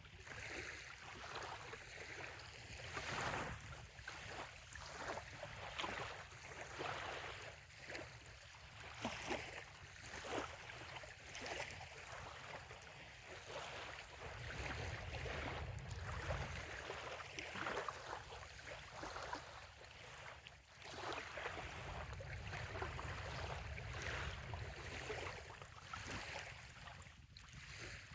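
Small waves lapping and splashing on a sandy bay shore in an irregular run of short wash sounds, with a low rumble underneath that swells in the middle and again later on.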